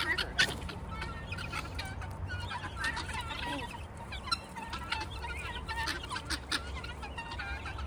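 A flock of guinea fowl calling, with many short calls overlapping one another.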